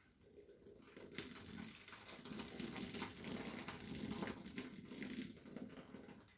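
Wet cleaning sponge being squeezed and worked by hand: irregular squishing with small crackles. It starts faintly about half a second in and grows fuller over the next few seconds.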